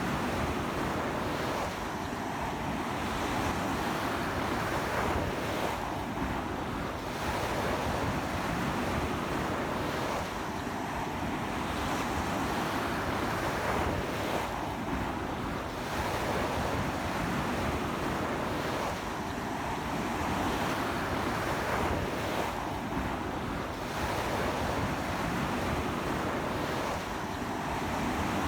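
Ocean waves breaking and washing up a beach in a strong sea wind, a continuous surf roar that swells every few seconds. Wind buffets the microphone throughout.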